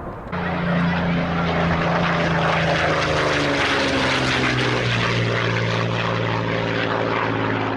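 Propeller-driven aircraft running at power. These are most likely the Martin Mars flying boat's four Wright R-3350 Duplex-Cyclone radial piston engines. The engine note drops in pitch about four seconds in.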